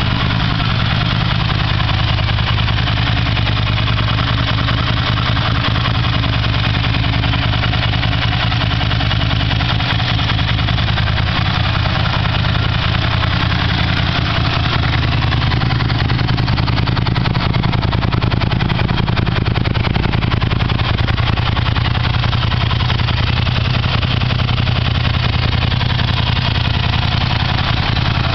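Ducati 600 Monster's air-cooled 90° V-twin engine idling steadily on its first run after an engine rebuild.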